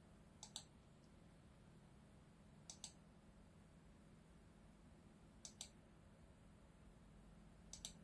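Computer mouse clicking four times, each a quick pair of clicks a couple of seconds apart, over a faint steady low hum.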